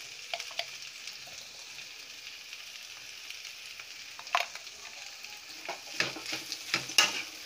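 A stir-fry of vegetables, egg and fish pieces sizzling steadily in a hot metal kadai. A slotted metal spoon clicks and scrapes against the pan a few times, most in the last couple of seconds as the mix is stirred.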